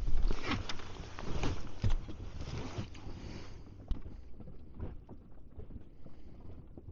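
Wind buffeting the microphone on an inflatable boat at anchor, with small knocks and slaps around the boat. The gusty noise drops away after about three and a half seconds, leaving light scattered clicks.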